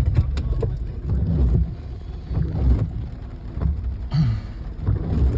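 Car cabin noise while driving on a highway: a strong, uneven low rumble from the road and engine, with a few faint fragments of voices.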